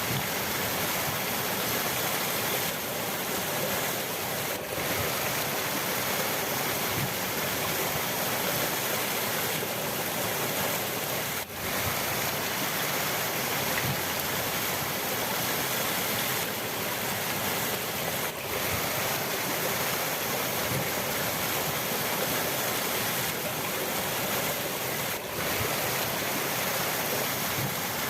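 River water rushing steadily, a dense even hiss of flowing water, with brief momentary dips about every seven seconds.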